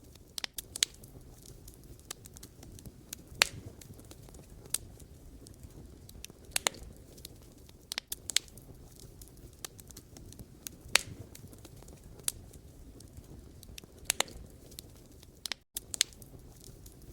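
Wood campfire burning, with a low steady rumble of the flames and sharp, irregular pops and crackles from the burning logs every second or two. There is a split-second gap in the sound near the end.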